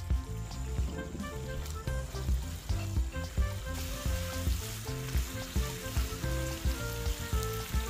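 Shrimp sizzling in melted garlic butter in a frying pan while being stirred, the sizzle growing brighter about four seconds in. Background music with a steady beat plays underneath.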